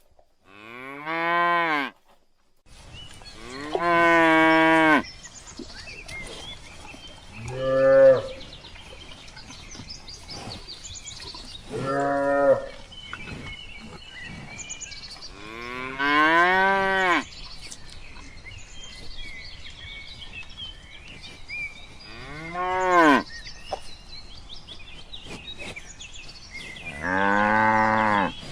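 Cattle mooing: seven separate calls a few seconds apart, some short and some drawn out for about a second.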